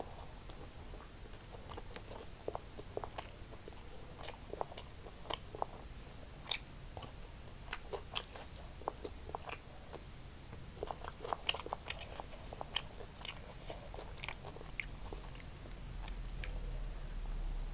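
Close-miked chewing and biting of fried rice eaten by hand: a run of irregular sharp clicks, thickest about halfway through, over a low steady hum.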